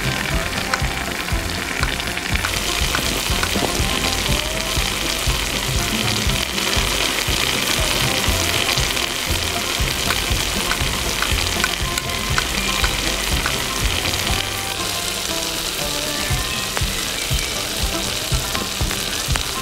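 Hot oil sizzling steadily in a miniature pan as food fries, with small pops and crackles, over background music.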